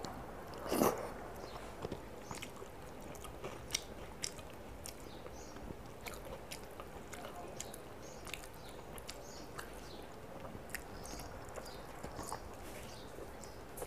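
Close-up eating sounds as rice and chicken curry are eaten by hand: chewing and small wet mouth clicks scattered throughout, with one louder wet sound about a second in.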